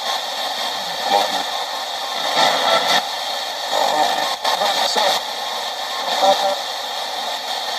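Spirit box sweeping rapidly through radio stations: a steady hiss of static with brief chopped fragments of broadcast voices breaking in every second or so, fragments the operator listens to as spirit replies.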